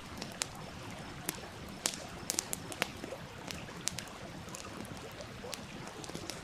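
Wood campfire crackling, with irregular sharp pops scattered through, over the steady rush of a stream.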